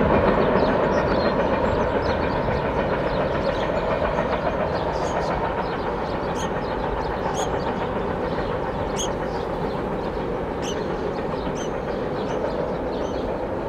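CSX freight train's cars rolling away on the rails, a steady rumble and rattle that slowly fades as the train recedes.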